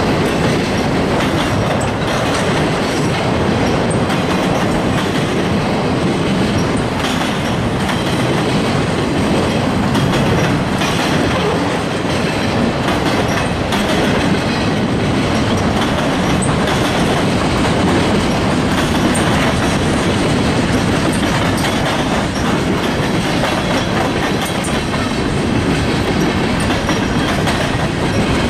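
Freight cars rolling past, a steady loud rumble of steel wheels on rail with a rapid clickety-clack over the rail joints.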